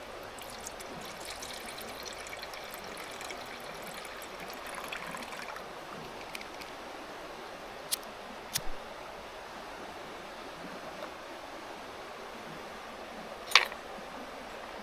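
Steady rushing of a mountain stream, with faint high ticks in the first few seconds and a few sharp clicks, the loudest near the end.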